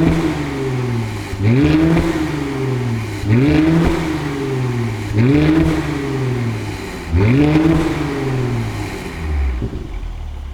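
Mercedes-AMG C43's twin-turbo V6 free-revving through an ARMYTRIX valved exhaust with the valves open: repeated blips to about 3000 rpm, roughly every two seconds, each one a quick rise in pitch and a slower fall back to idle. The revs settle to idle near the end.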